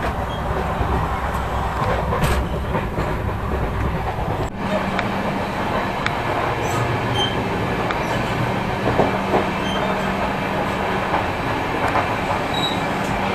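Indian Railways AC passenger coach running at speed, heard from inside: a steady rumble of wheels on the track with a few clicks. About four and a half seconds in the sound changes abruptly to a steadier running noise with a low steady hum.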